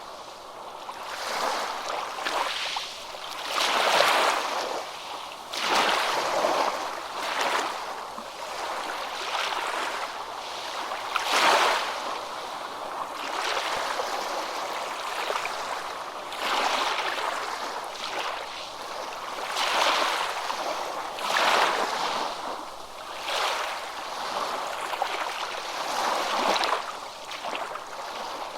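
Water washing and splashing in repeated surges, swelling and falling every second or two.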